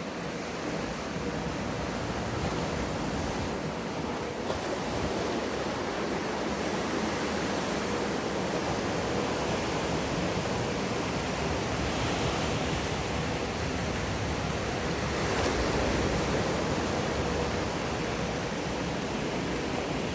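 Steady rush of breaking, churning water in a wave pool, swelling slightly about sixteen seconds in, with a faint steady hum underneath.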